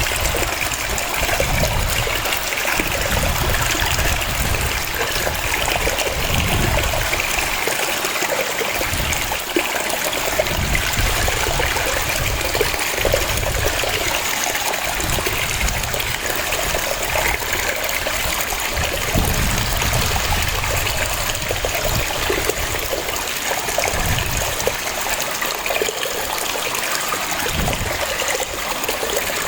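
Waterfall: a steady rush of falling water, with an uneven low rumble beneath it.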